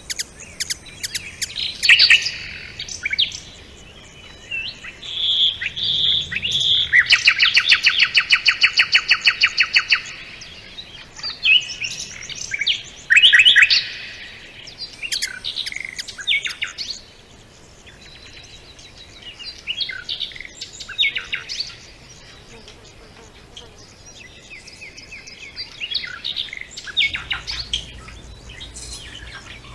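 Several songbirds singing and chirping together. Three clear whistled notes come a few seconds in, followed by a loud, fast trill of rapidly repeated notes lasting about three seconds. Scattered chirps and short phrases continue afterwards.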